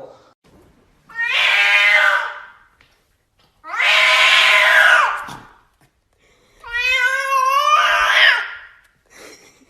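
A cat yowling loudly: three long, drawn-out caterwauling calls, each about one and a half to two seconds long, with short pauses between them.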